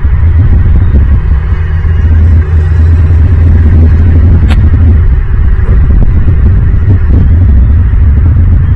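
Loud, steady low rumbling hum, with a single sharp click about four and a half seconds in.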